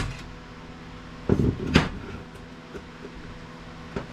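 Two sharp knocks about half a second apart, about a third of the way in, as parts of a dismantled electronic device are handled on a workbench, over a faint steady low hum.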